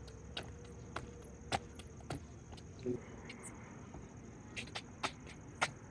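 Steady high-pitched insect chirring, with scattered short sharp taps.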